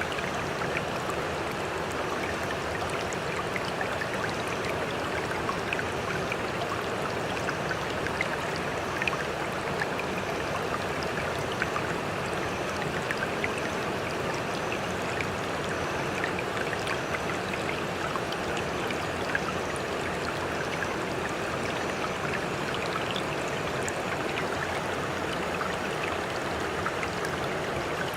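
Sea water washing steadily, with no wave surges, and small splashes and droplet ticks scattered through it.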